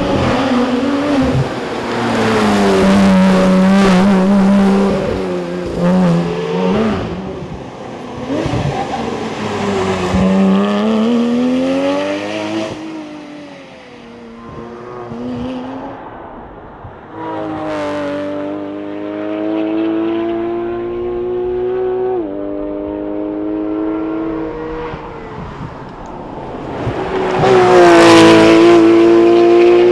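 Porsche 911 GT3 RS flat-six engine driven hard on a rally stage. The revs climb and fall through the gears with sudden drops at upshifts, ease off for a few seconds around the middle, then pull hard again, loudest near the end.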